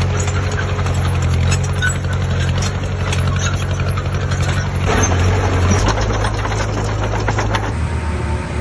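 Heavy diesel engine of an earthmoving machine running steadily, with irregular clicks and rattles over it; the sound changes abruptly near the end.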